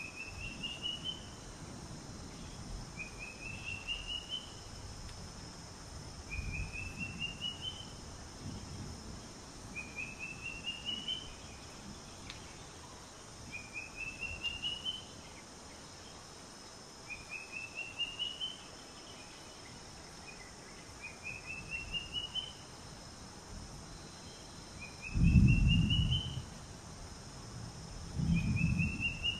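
A bird repeats a short phrase of quick chirps stepping upward in pitch, about every three seconds, over a steady high insect hiss. Two loud low rumbles come near the end.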